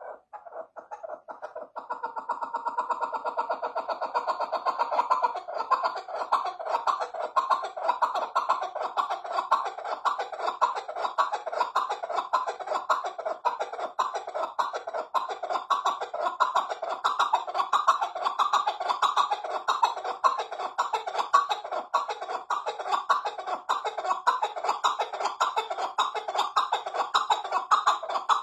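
Partridge calling: a long, unbroken run of rapid, repeated clucking notes that builds up about two seconds in and keeps going.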